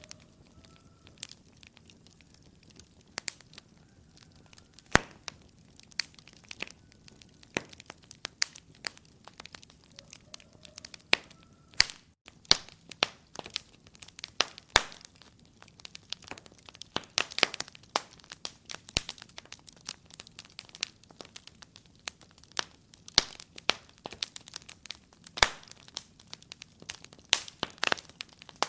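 Wood fire crackling in a fireplace: irregular sharp pops and snaps over a low hiss, coming thicker from about halfway through.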